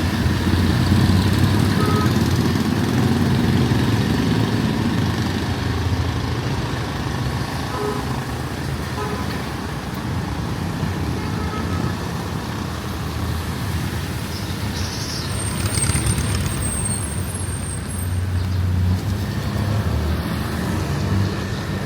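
Street traffic: heavy vehicle engines running and passing with a steady low rumble, louder in the first half, and a brief high-pitched sound about two-thirds of the way through.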